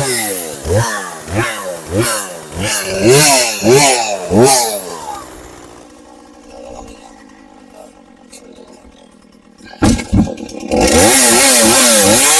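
Budget two-stroke gas chainsaw revving up and down in quick, repeated surges, about two a second. Midway it drops to a quieter steady idle for a few seconds, then after a few sharp knocks it revs up and down again.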